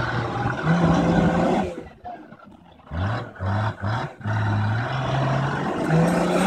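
Off-road 4x4's engine revving hard under load as it climbs a steep dirt slope. Long high revs drop off about two seconds in, then three quick throttle blips follow, then sustained revving that rises in pitch near the end.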